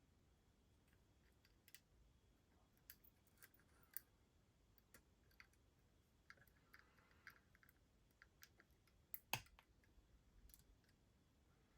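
Faint, irregular clicks and taps of small model-kit parts and tools being handled, with one louder knock about nine seconds in and a soft rustle or scrape around the middle.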